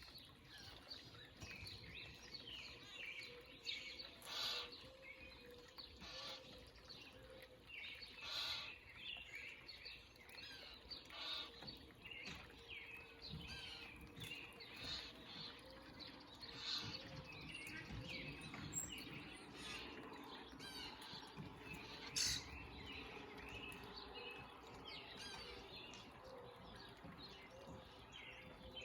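Several small songbirds chirping and calling continuously and overlapping, with a few louder sharp notes now and then, faint against a steady low background noise.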